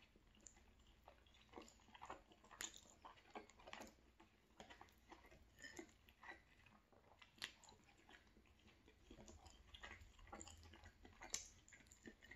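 Faint close-up chewing of rigatoni and sausage, an irregular run of soft smacks and clicks from the mouth, with the plastic fork now and then touching the plate.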